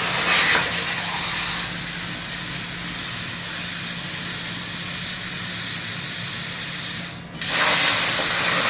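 CNC plasma cutting torch running, a loud steady hiss over a low hum, with a brief louder flare just after the start. About seven seconds in the hiss drops out for a moment, then comes back.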